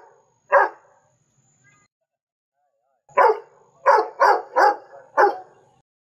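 A dog barking: one bark just under a second in, then after a pause of about two seconds a run of five barks in quick succession.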